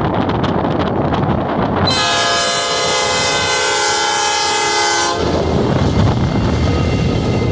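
Diesel locomotive horn sounding one steady blast of about three seconds, starting about two seconds in, with several notes sounding together. Low rumbling from the train and wind buffeting on the microphone sound before and after it.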